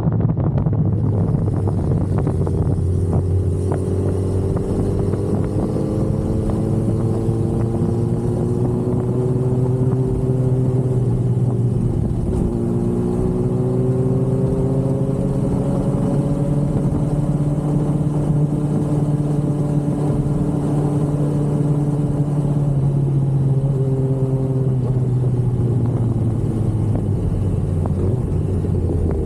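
2005 Yamaha R1's inline-four engine running at a steady cruise under the rider, its pitch slowly rising and falling as the throttle changes, with no sharp revs.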